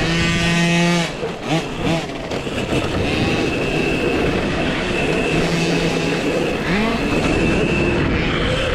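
2023 KTM SX-E5 electric mini motocross bike riding, its electric motor whining over loud rushing wind and ground noise. The whine's pitch slides around a second in and again near seven seconds.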